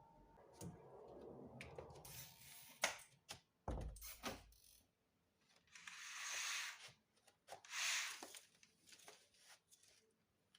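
Light handling noises: three soft rustling swishes, each about a second long, among small clicks and knocks.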